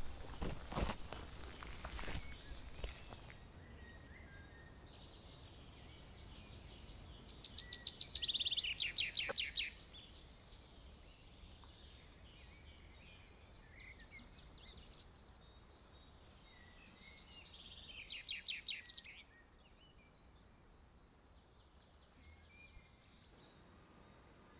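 Woodland birds singing, with two bursts of fast, trilled high phrases about eight and eighteen seconds in, over quiet outdoor ambience with a faint steady high tone. In the first few seconds, a few footsteps crunch on the loose creek-bed stones.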